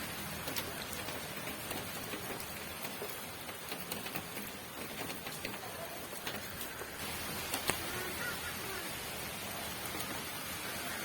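Steady rain falling on a surface, with scattered drop ticks and one sharper drip about two-thirds of the way through.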